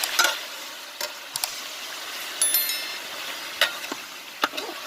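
Marinated chicken pieces frying in hot oil in a cooking pot, with a steady sizzle. A stirring utensil knocks against the pot several times, with a brief metallic ring near the middle.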